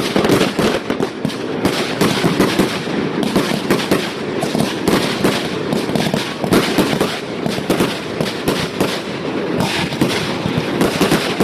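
Fireworks going off in rapid succession: a dense, unbroken run of overlapping bangs and crackle.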